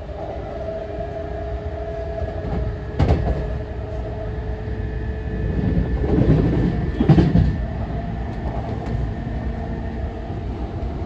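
Running noise inside a JR East E233-0 series electric commuter train car: the steady rumble of wheels on rails under a steady whine from the traction drive. A sharp knock comes about three seconds in, and a louder run of wheel knocks follows around six to seven seconds.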